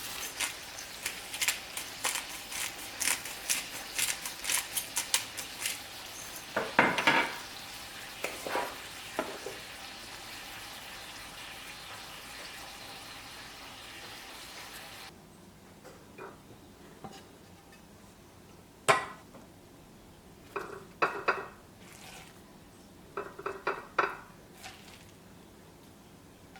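A steady hiss full of rapid crackling pops, like food sizzling. About halfway through it cuts off suddenly, and a few separate clinks and knocks follow over a quieter background.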